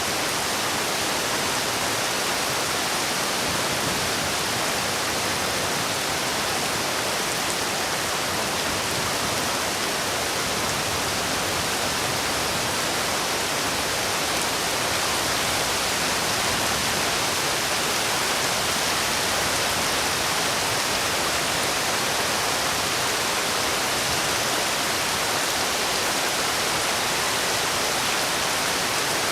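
Steady, even rain, a continuous hiss with no separate drops or thunder standing out.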